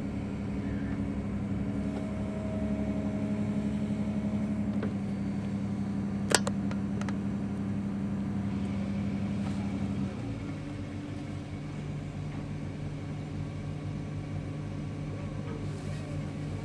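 Diesel engine of a piling drill rig running steadily, its pitch dropping a step about ten seconds in as the engine speed changes, with one sharp metallic click near the middle.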